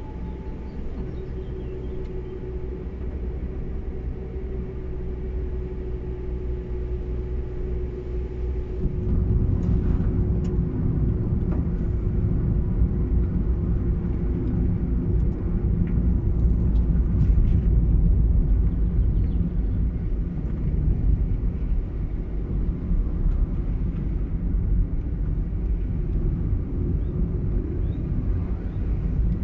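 A car driving along a road: a steady rumble of engine and tyre noise with a faint hum that slowly drops in pitch. About nine seconds in, the rumble gets louder and stays that way.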